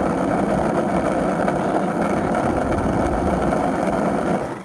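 Carver skateboard wheels rolling over rough asphalt: a steady rolling noise that stops just before the end.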